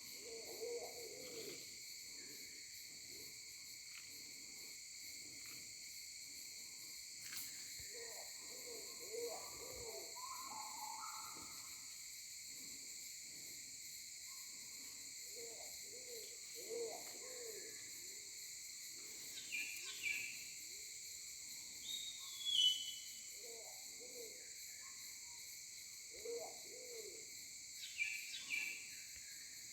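Low hooting bird calls come in short runs, repeated several times, over a steady high buzz of insects. Brief higher chirps from a bird come in the second half.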